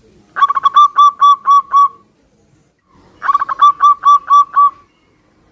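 Zebra dove (perkutut) singing its cooing song twice. Each phrase opens with a quick stuttering run, then about five clear, evenly spaced coos on one pitch.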